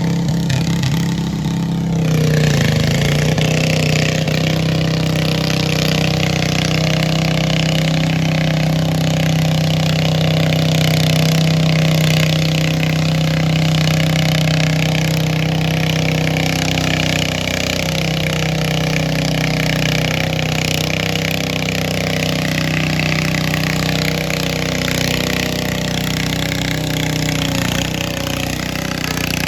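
Antique pulling tractor's engine running hard and steady. Its pitch and loudness step up about two seconds in and then hold, easing a little near the end.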